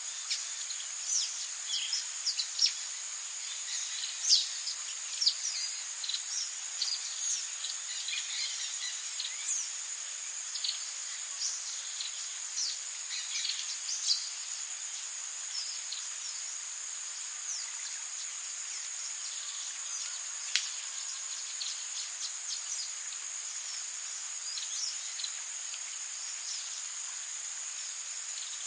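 Tropical rainforest ambience: a steady, high-pitched drone of insects with many short bird chirps over it. The chirps are thick in the first half, then sparse, with one sharp call about two-thirds of the way in.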